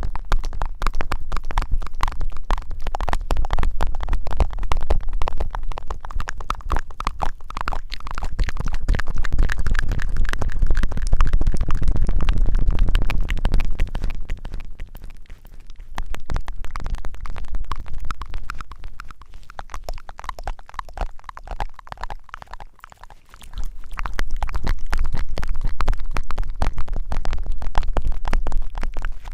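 Close-miked rubbing and scratching against the microphone: dense, irregular crackles over a low rumble, swelling and easing off in waves.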